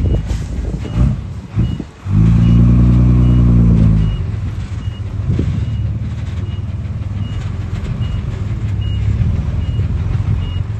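Diesel engine of heavy earthmoving machinery running, with its reversing alarm beeping almost twice a second. About two seconds in, the engine note swells loud and steady for two seconds, then drops back.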